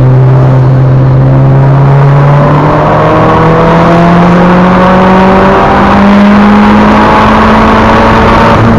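Mitsubishi Lancer Evolution VIII's turbocharged 2.0-litre four-cylinder engine under load, heard from inside the stripped cabin. It holds a steady pitch through a corner, then steps up about two seconds in and climbs steadily as the car accelerates, levelling off near the end, with road and tyre noise underneath.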